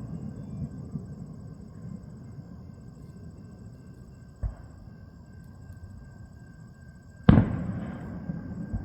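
Aerial fireworks shells bursting in the distance. Fading crackle gives way to a single boom about four seconds in, then a much louder boom near the end that echoes on for about a second.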